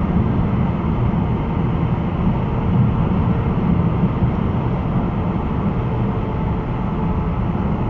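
Steady road and engine noise of a car being driven, heard from inside the cabin, with a faint steady tone above it.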